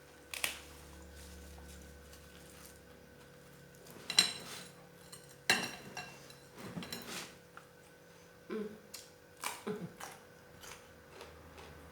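Dishes and eating utensils clinking and knocking during a meal: about eight scattered sharp clicks, the loudest about four and five and a half seconds in.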